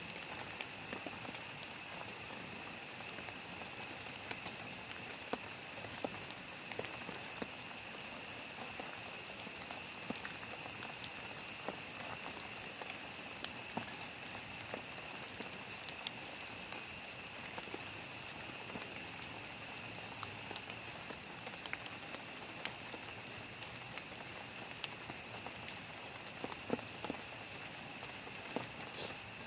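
Steady rain falling on a plastic tarp shelter, with many individual drops ticking sharply on the sheet. A steady high-pitched whine runs underneath.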